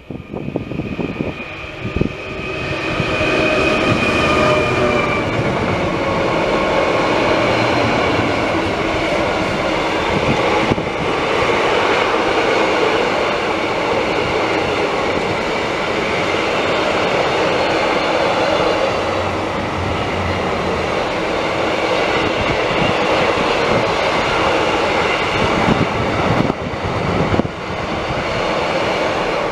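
A Class 66 diesel-electric freight locomotive passes at speed under power, its EMD two-stroke V12 engine drone sagging slightly in pitch as it goes by. A long rake of bogie covered vans follows, rolling past with steady wheel-on-rail noise.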